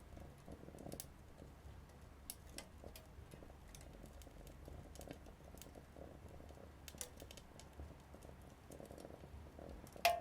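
Small wood fire crackling in a mini wood stove, with irregular sharp pops and one louder pop near the end.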